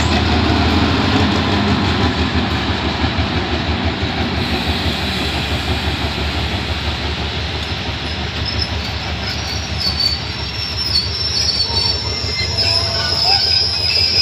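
GEA-class diesel-electric locomotive and its passenger coaches rolling past: a steady low engine drone over the rumble of wheels on rails, with high-pitched wheel squeal joining in near the end.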